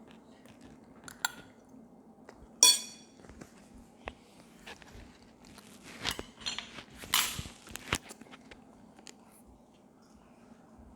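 Eating at a table: utensils clicking and scraping against dishes, with one loud ringing clink about two and a half seconds in and a few noisier scrapes between about six and eight seconds, along with chewing.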